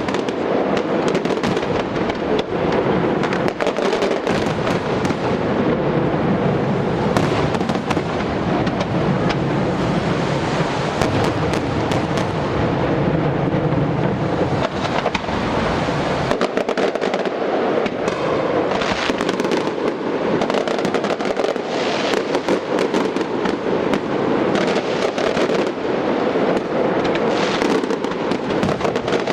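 Aerial fireworks display going off in a dense, unbroken barrage of rapid cracks and bangs, with a heavier low rumble of bursts through the first half.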